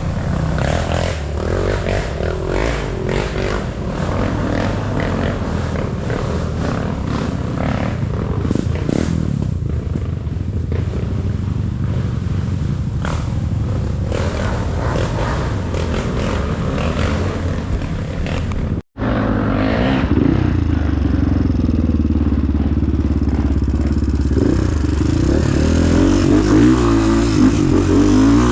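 Trail motorcycle engine running over rough dirt ground, with many clattering and scraping knocks in the first half. The sound drops out briefly about two-thirds of the way in, then the engine runs on, its pitch shifting near the end.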